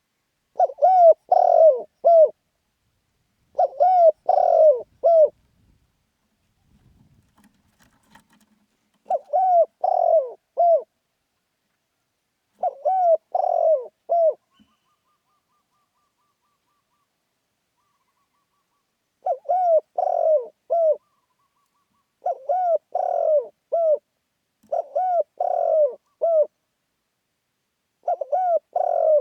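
Spotted dove cooing, its lively contest-style call: eight short phrases of three or four coos each, every phrase about a second and a half long, separated by pauses of one to five seconds.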